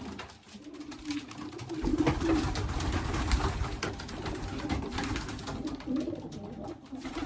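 Pigeons cooing in a loft, with repeated low calls and small clicks of the birds moving. A low rumble joins about two seconds in.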